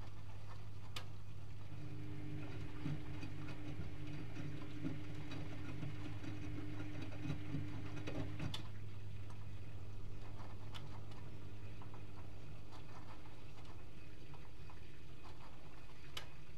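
Privileg Multispar 5110 washing machine running a 75 °C boil wash: a steady low hum, with a higher motor hum that comes in about two seconds in, breaks off briefly past the middle and then resumes. Scattered light clicks and ticks run through it.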